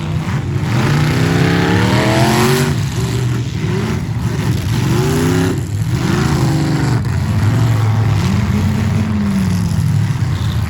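Several demolition derby car engines revving, their pitch rising and falling over and over as the cars accelerate and back off.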